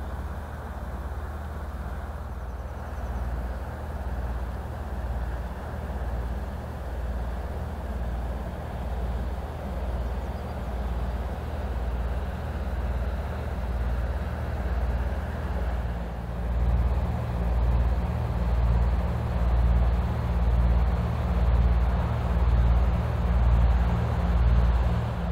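Inland motor vessel's diesel engine running as the ship passes: a low, steady hum that throbs about once a second and grows louder toward the end, over the wash of water and wind.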